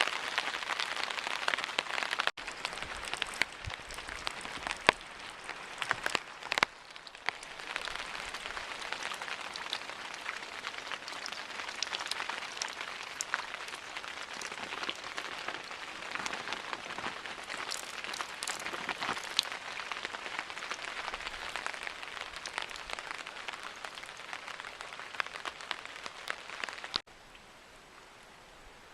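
Steady rain falling, an even hiss with many sharp individual drop ticks through it; it becomes suddenly quieter near the end.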